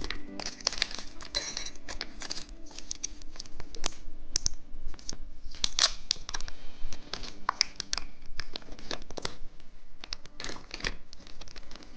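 Plastic candy wrapper being torn open and crinkled, with many irregular sharp crackles throughout.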